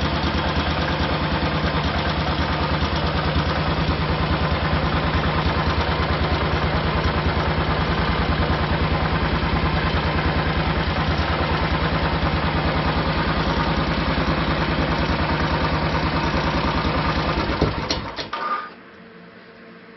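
Royal Enfield 500 single-cylinder engine running cold through an aftermarket MG-Race exhaust, idling steadily with an even, thumping beat. Near the end there is a click, and the engine stops within about a second.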